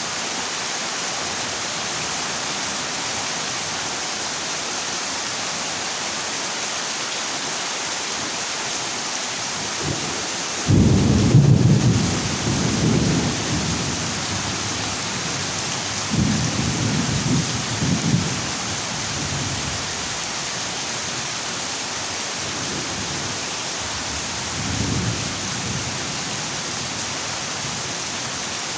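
Heavy rain falling steadily on a corrugated zinc roof, with three rolls of thunder: a loud one starting suddenly about a third of the way in, another a few seconds later, and a fainter one near the end.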